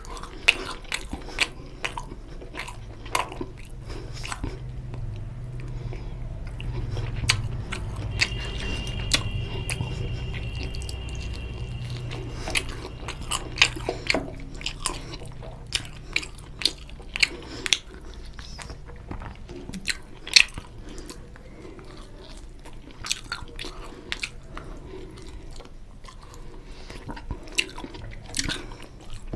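A man chewing and biting mouthfuls of mutton curry and rice close to the microphone, with sharp wet mouth clicks and smacks at irregular intervals.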